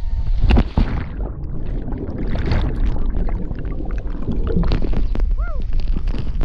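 Steady rushing and splashing of a big waterfall and its pool, with short sharper splashes. About five seconds in, a person gives a brief shout that rises and falls.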